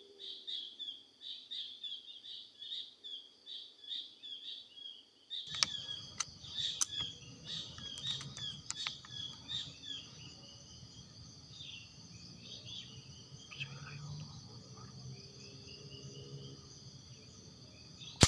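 Small birds chirping rapidly and repeatedly, giving way to a steady high-pitched insect drone, with a few faint clicks. Right at the end comes a single sharp crack, the loudest sound, fitting the shot at the dove that was being aimed at.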